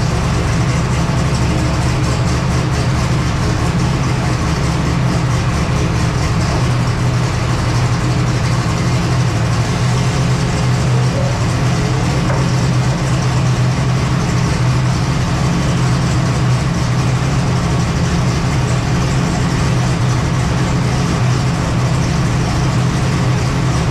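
Turbocharged Gen V LT V8 in a Silverado truck running steadily, without revving, on the chassis dyno.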